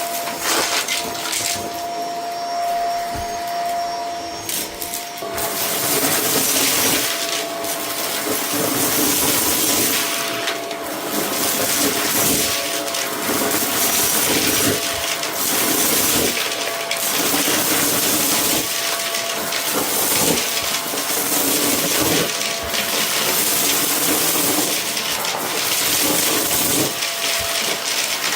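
Vacuum cleaner running with a steady whine, sucking up a debris mix from a rug. Dense crackling and rattling of bits going up the hose sets in about five seconds in.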